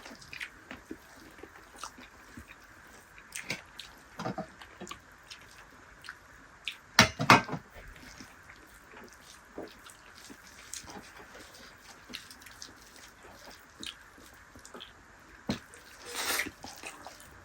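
Close-up eating sounds of a dal bhat meal with dried yak meat (sukuti): chewing, lip smacks and small wet clicks, with a pair of louder knocks about seven seconds in and a short noisy burst near the end.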